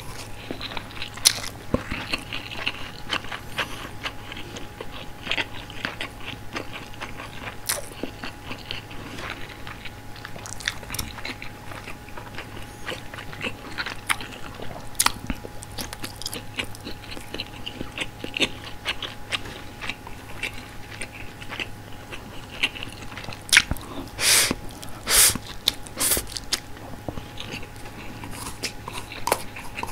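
Close-miked eating: biting into and chewing frankfurter sausage and steamed rice, with many small wet mouth clicks and crackles. A few louder bursts come near the end.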